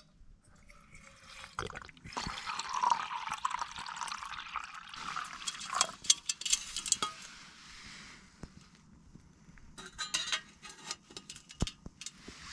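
Water being poured into a small camp pot for about four seconds, followed by scattered light metal clinks and rattles of the cookware being handled.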